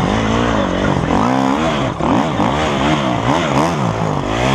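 Off-road motorcycle engine revving up and down over and over, about eight rises and falls, as the throttle is worked over the bumps and jumps of a dirt track.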